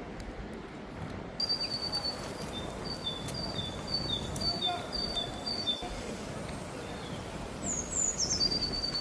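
A songbird singing a quick, high two-note phrase over and over, alternating a higher and a lower note, then a few quick falling notes near the end, over a steady low outdoor background noise.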